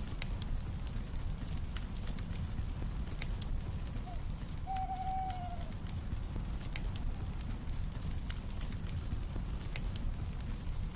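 Campfire crackling, with scattered sharp pops over a steady low rumble, and crickets trilling steadily. About four seconds in comes one owl hoot, held for about a second and dipping slightly at the end.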